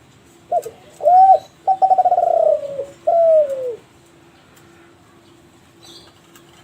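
Kelantan-line spotted dove (derkuku, tekukur) cooing one full phrase: a short opening note, an arched coo, a fast rolling trill, then a long falling coo, over about three seconds starting half a second in.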